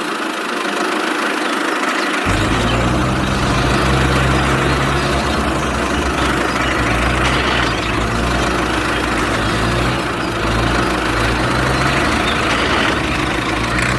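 Engine idling steadily; its low hum comes in about two seconds in, over a steady hiss.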